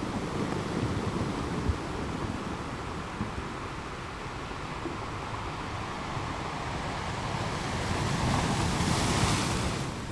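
Ocean surf washing on a shore, a steady rush of waves; a wave swells louder about eight seconds in and falls away near the end.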